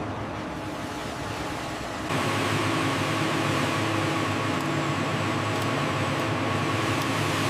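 Steady factory machinery drone with a low hum and a hiss. About two seconds in it changes abruptly to a louder, fuller drone with a steady whine over it.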